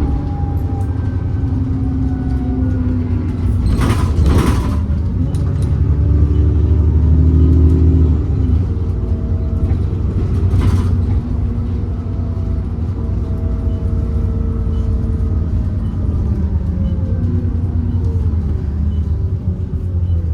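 ADL Enviro 400 double-decker bus running on the road, its engine note stepping up and down as it changes speed and gear. Two short bursts of hiss come about 4 and 11 seconds in.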